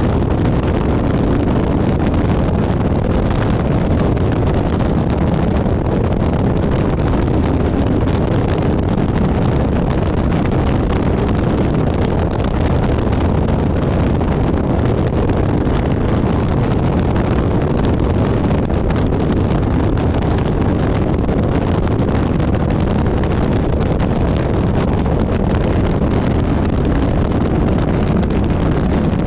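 Cessna 170A light aircraft's engine and propeller drone, steady and unbroken, mixed with rushing wind noise on the microphone.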